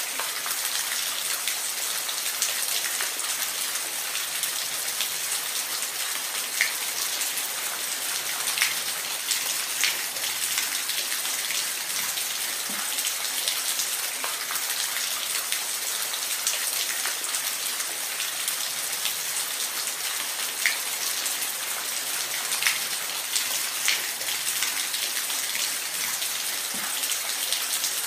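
Waterfall: a steady, hissing rush of falling water with occasional sharp splashes standing out.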